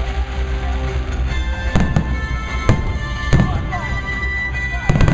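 Aerial fireworks going off in sharp bangs, about five of them from a couple of seconds in, over steady music.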